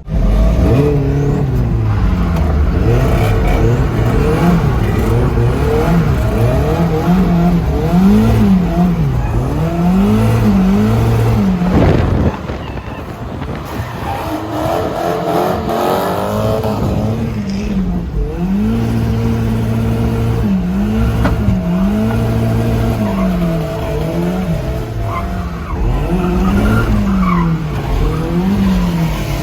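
Turbocharged Mazda Miata's four-cylinder engine revving hard and falling back again and again while drifting, with tyre squeal. The sound drops suddenly about twelve seconds in, then the revving climbs again.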